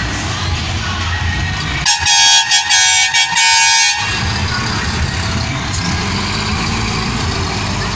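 Truck air horn sounding in several quick blasts lasting about two seconds, over the steady running of truck engines.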